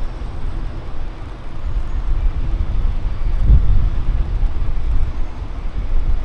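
Outdoor city-street ambience: a loud, uneven low rumble that swells about three and a half seconds in.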